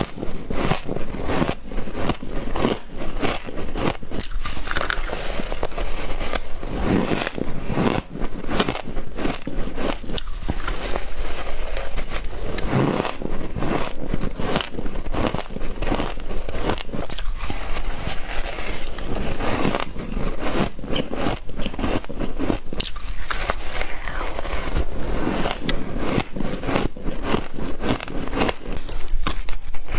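Frost being bitten and chewed close to the microphone: a dense run of crackling crunches with some scraping.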